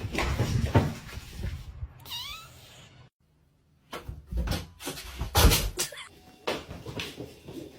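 A cat meows once, a short call about two seconds in, among knocks and thumps. After a sudden break, a run of sharp knocks and thuds follows.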